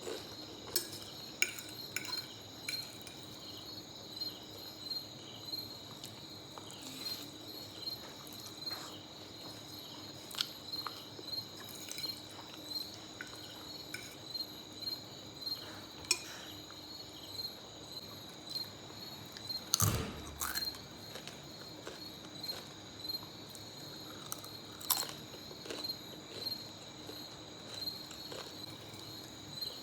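Close-up chewing of spaghetti, short wet clicks about once a second, over steady insect chirping in the background. One sharper clink about twenty seconds in.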